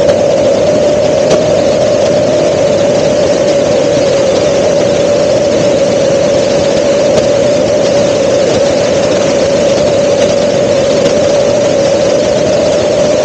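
Helicopter in flight: steady engine and rotor noise with a constant mid-pitched whine.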